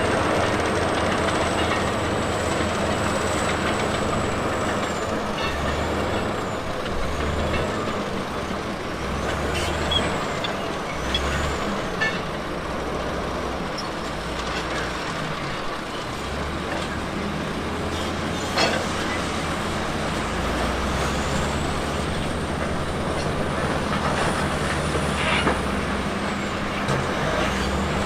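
Diesel engine of a heavy earthmoving machine running under work, its low tones swelling and dropping, with a high thin whine that wavers in pitch and an occasional sharp clank.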